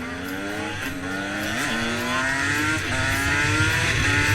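A vehicle engine accelerating hard through the gears. Its pitch climbs, drops at each upshift, about three times, and climbs again, getting louder throughout.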